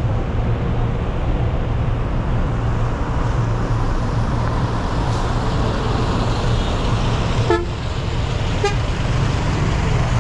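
A motor vehicle running with a steady low rumble and road noise. Two brief sharp sounds come about a second apart, late on.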